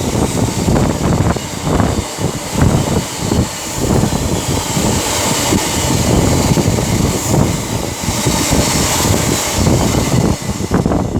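Freight train passing through the station at speed: a loud, continuous rumble of wheels on the rails with a steady run of irregular clattering knocks.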